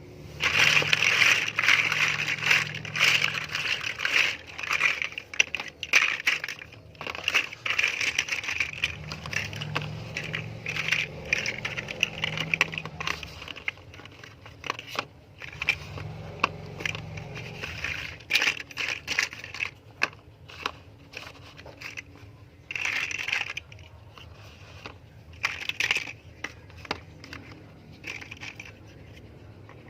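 Plastic LEGO pieces being handled and snapped together: rapid clicking and rattling that is dense for the first half, then comes in shorter bursts with quieter gaps.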